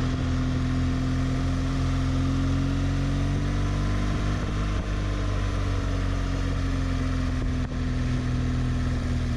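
Motorcycle engine running at a steady speed, its pitch holding nearly level, over a steady rush of noise.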